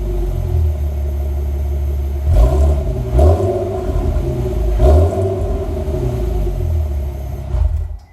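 Infiniti G37's 3.7-litre V6 running through a Borla full cat-back exhaust with a deep idle rumble, blipped three times about two and a half, three and five seconds in; the sound cuts off abruptly near the end.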